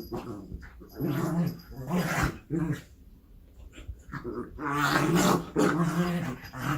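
A dog growling in a run of short growls with pauses between them, the longest and loudest about five seconds in.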